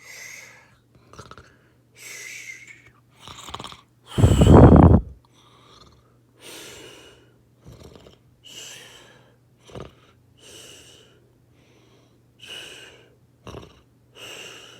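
A person's breathing as someone dozes off: a series of breathy inhales and exhales about every second or so, with one much louder breath about four seconds in.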